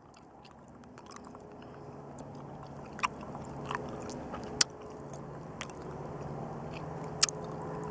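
Mouth sounds of someone chewing a soft chili-coated candy chew, with a few sharp clicks spread through.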